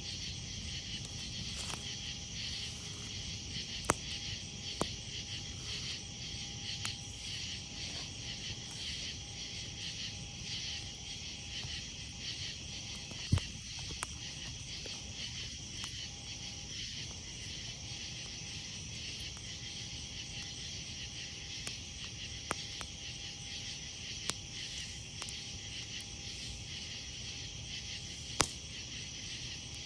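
A dense, steady chorus of crickets and other night insects chirping, over a low crackle of a wood campfire, with a few sharp pops from the burning wood.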